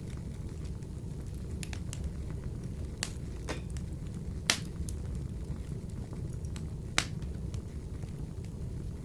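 Wood fire burning in a wood-burning stove: a steady low rumble with scattered crackles and sharp pops, the two loudest about four and a half and seven seconds in.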